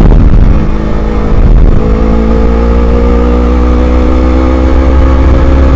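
Motorcycle engine running while riding, its note dropping briefly about a second in and then holding and rising slightly, under heavy wind rumble on the microphone.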